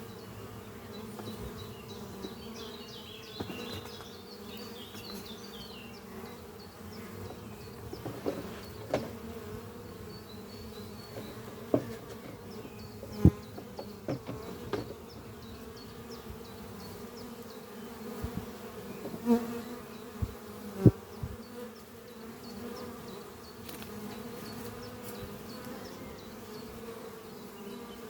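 Honeybees buzzing at the entrance of a busy hive, a steady many-winged hum, with about seven sudden brief louder peaks between about eight and twenty-one seconds in, as single bees come very close. Faint bird chirps sound in the first few seconds.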